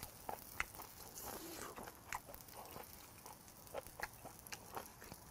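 Close-miked chewing and wet mouth sounds of a person eating grilled beef intestines, with scattered soft clicks.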